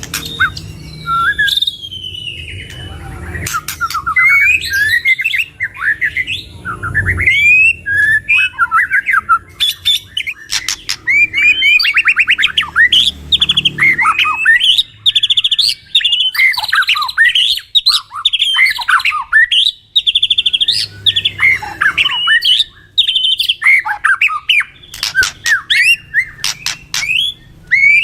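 Two white-rumped shamas (murai batu) singing a fast, varied song packed with mimicked calls of other birds: quick trills, rattles, sharp clicks and whistled phrases, with barely a pause.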